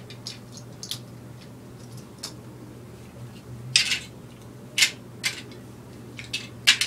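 Small plastic toy pieces being handled, clicking and clinking against each other and the surface: about eight separate knocks, the loudest near the middle and near the end.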